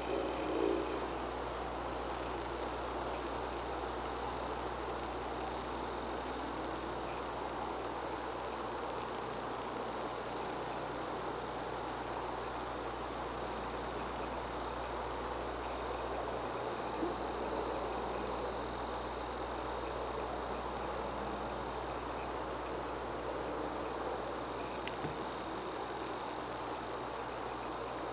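Crickets trilling in a steady, unbroken high chorus over a soft, even background hiss.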